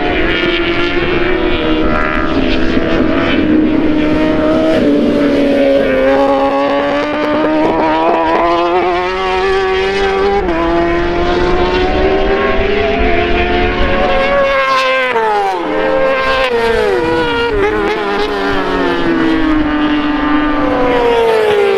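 Racing motorcycle engines at high revs on a track, the pitch climbing with short drops at each upshift. About two-thirds through, the pitch falls in a series of steps as a bike brakes and downshifts, then climbs again near the end.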